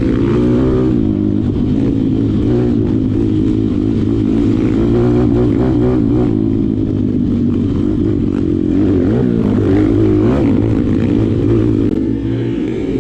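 Malcor XM 160 pit bike's single-cylinder engine running hard, its pitch rising and falling with the throttle.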